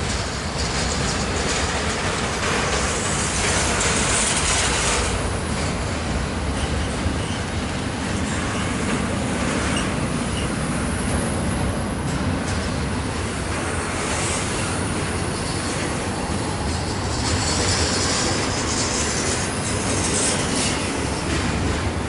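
Union Pacific freight train's container cars rolling slowly past, steel wheels clacking over the rails with a steady rumble. Higher wheel squeal comes and goes, a few seconds in and again later.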